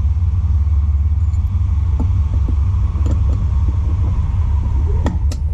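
A steady, loud low rumble throughout, with a few light clicks and taps of tools and parts on the partly dismantled pit bike engine, most of them between about two and five seconds in.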